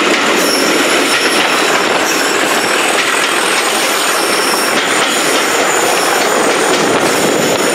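Train passing close by: a loud, steady rush and rattle of wheels on the rails, with faint high-pitched wheel squeal coming and going.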